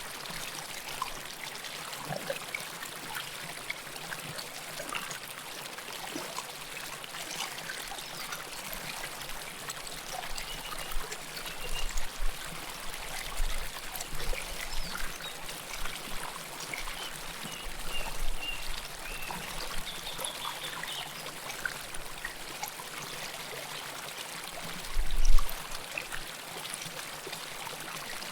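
River water flowing and trickling over rocks, recorded close up as a steady splashing rush with small gurgles and drips. A few short low rumbles come through, the strongest about 25 seconds in.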